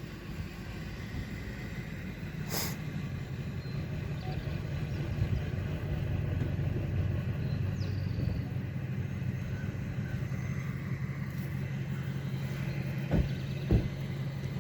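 A motor engine running at a steady low pitch, growing louder over the first few seconds, then holding. There is a sharp click about two and a half seconds in and two knocks near the end.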